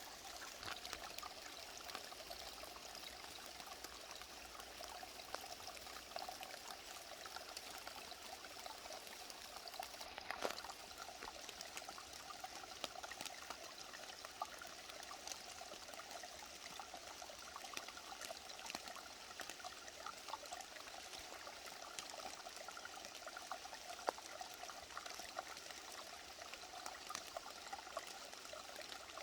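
Mountain valley stream running over rocks: a steady rush and babble of water with small splashes.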